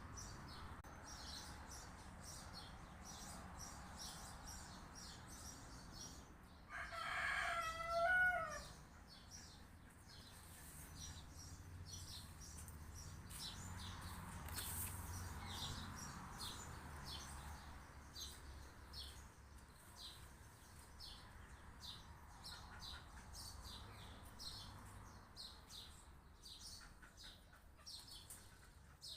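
A rooster crows once, about seven seconds in: one call of about two seconds that wavers at the end. Around it, small birds chirp over a low, steady rumble.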